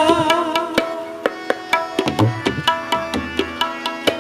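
Instrumental passage of Sikh kirtan: tabla strokes, with deep bass-drum thumps now and then, over held harmonium notes.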